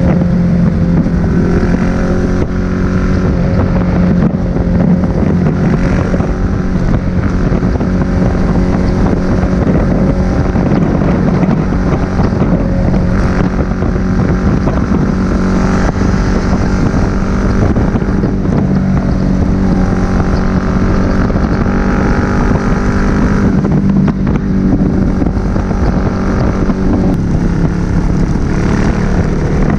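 Suzuki SV1000S's 90-degree V-twin engine running steadily through a Leo Vince aftermarket exhaust while riding, with wind rushing over the microphone.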